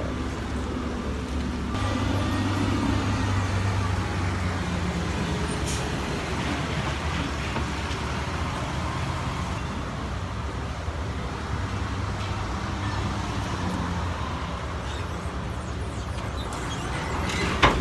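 Forklift engine running steadily while it loads a car onto a trailer, briefly louder about two seconds in, with a sharp clunk near the end.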